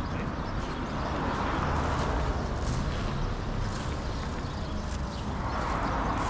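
Road traffic noise: a steady rush from vehicles on the road, swelling as vehicles pass about two seconds in and again near the end.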